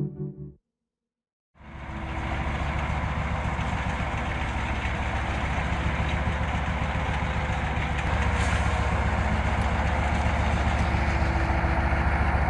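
Heavy truck engine running steadily under load, with a dense low rhythmic throb; it starts after a brief silence near the beginning and gets a little louder about two-thirds of the way through.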